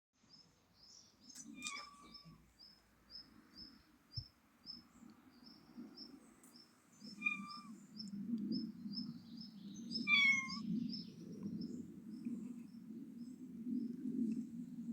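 A cat gives three short, chirp-like meows, about two, seven and ten seconds in. Under them runs a high, thin chirp repeating about three times a second, and a low steady rumble that grows louder from about seven seconds in.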